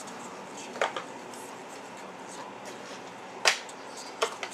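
Sharp snaps and clicks of a trading card box and its pack being handled and opened: one about a second in, then three more close together near the end.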